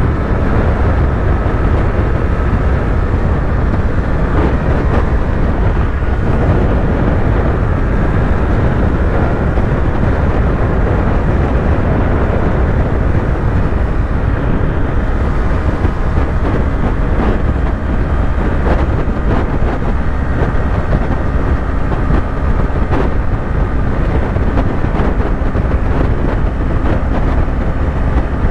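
Yamaha YZF-R3's parallel-twin engine running steadily at highway cruising speed, mixed with a dense, steady rush of riding wind.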